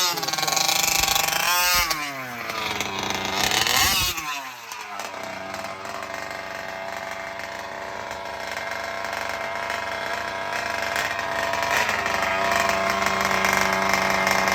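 RC Max two-stroke gas engine of a 1/5 scale RC car revved up and down a few times, then settling into a steady idle that picks up slightly near the end. It is being run in, freshly fitted with new gaskets and a velocity stack with the air filter off, and runs pretty decent.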